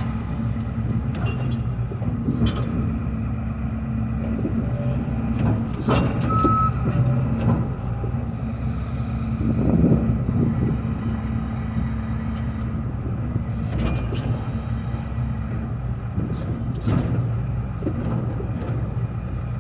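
John Deere 245P excavator's diesel engine running steadily, with occasional knocks as the machine is worked. A brief high beep comes a little over six seconds in.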